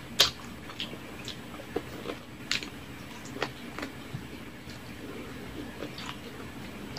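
Close-miked eating sounds: wet mouth smacks and chewing as saucy barbecue pork ribs are bitten and eaten. It comes as a scattering of short, sharp smacks, the loudest just after the start.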